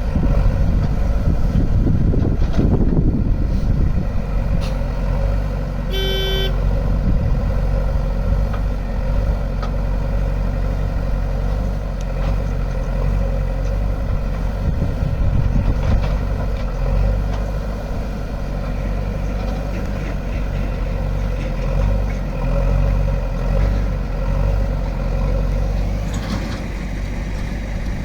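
Heavy diesel machinery engines running steadily at a pond dig, with one short horn toot about six seconds in.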